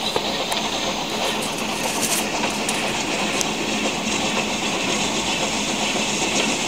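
A train approaching along the track: a steady running noise that grows a little louder as it nears.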